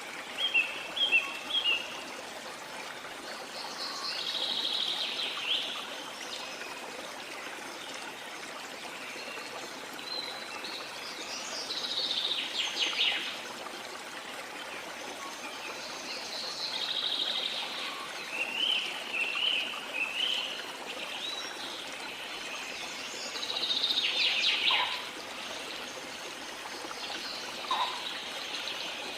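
A river flowing steadily, with birds calling over it every few seconds: short repeated chirps and longer trilled songs, the loudest around the middle and near the end.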